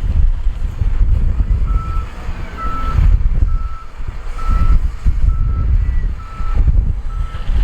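A heavy machine's reversing alarm beeping at a steady pitch, a little faster than once a second, starting about two seconds in, over the loud low rumble of heavy diesel equipment.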